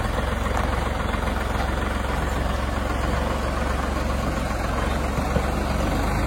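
A vehicle engine running steadily, with a continuous low rumble and no change in pitch or level.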